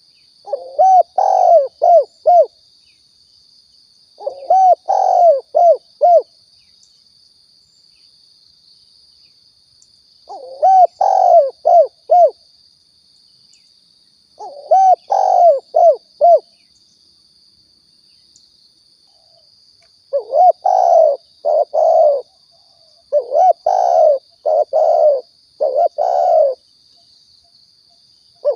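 Spotted dove (tekukur) cooing in repeated phrases of several coos, each phrase about two seconds long, with gaps of a few seconds that shorten into a faster run of phrases in the second half. It is a recorded lure call for attracting doves. A steady faint high whine runs underneath.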